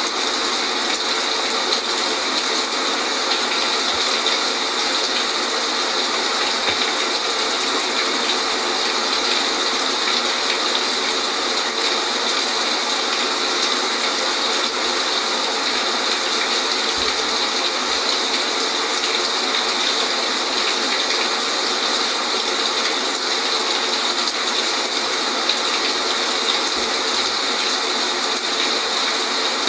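Steady rain falling: an even, unbroken hiss, brightest in the upper range.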